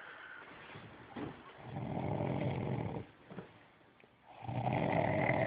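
A dog snoring, with two loud snores about two and a half seconds apart.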